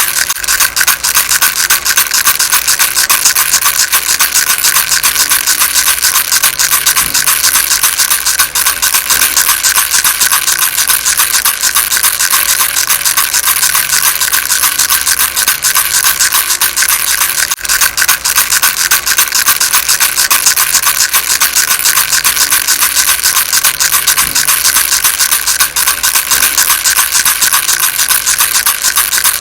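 A rattle shaken continuously, giving a dense, fast, high rattling with no pauses.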